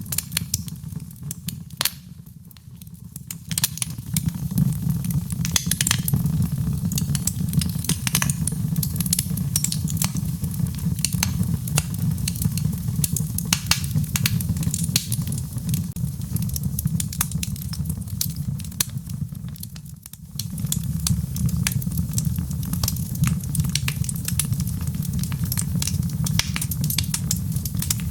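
Wood fire crackling, with many sharp pops and snaps over a low, steady rumble of burning. The level dips briefly twice.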